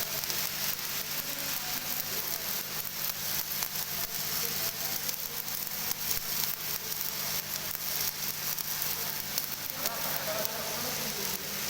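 Arc welding in the horizontal (2G) position: a steady, dense crackle and sizzle of the arc, with a steady low hum underneath.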